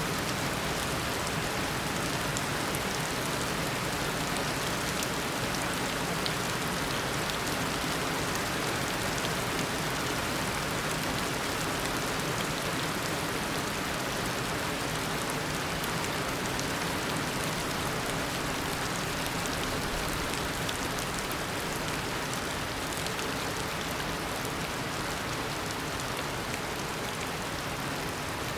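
Heavy tropical rain falling steadily in a downpour, an even hiss with a patter of individual drops.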